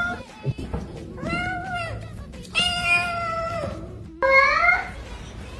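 Domestic cat meowing: three drawn-out meows, the second held longest and the last rising in pitch.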